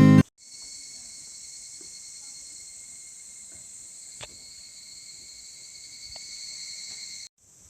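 Steady chorus of insects, a continuous high trill in the manner of crickets, with a few faint clicks; it cuts off suddenly near the end.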